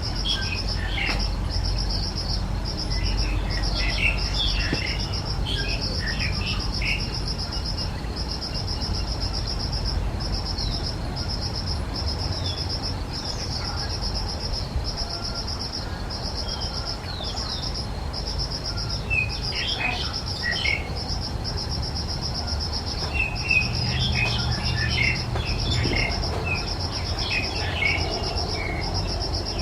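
An insect trills continuously in a high, evenly pulsing rhythm, while small birds chirp in several short bursts. A low rumble runs underneath.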